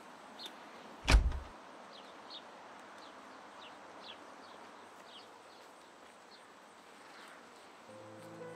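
A door thuds open once, about a second in, over quiet outdoor ambience with faint, short high bird chirps scattered throughout. Soft music notes begin near the end.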